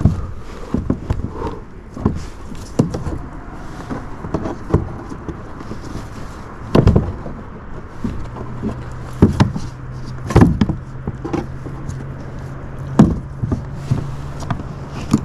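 Irregular knocks and thumps in a small fishing boat as a fish is handled and landed by hand. A steady low hum starts about halfway through.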